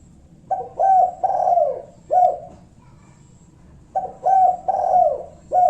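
Spotted dove (tekukur) cooing twice, each phrase about four notes with a long falling coo near its end. It is a 'kuk satu' lure call, used to provoke rival doves into answering.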